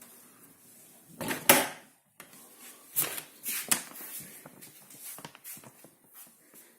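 Hotpoint dishwasher door being shut: a loud clunk about a second and a half in, followed by several lighter clicks and knocks.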